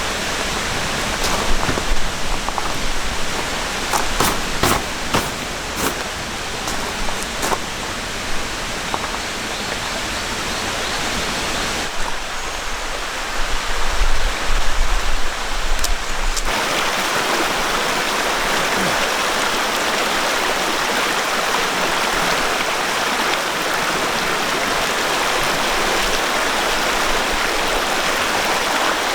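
A calm mountain stream flowing steadily. Some clicks, knocks and a low rumble sit over it in the first half; about 16 seconds in, it changes suddenly to a steadier, brighter rushing hiss.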